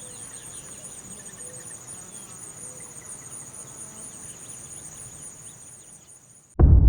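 Crickets chirping in a steady, high, pulsing trill, with faint bird calls behind. The trill stops shortly before the end, and a loud low sound cuts in.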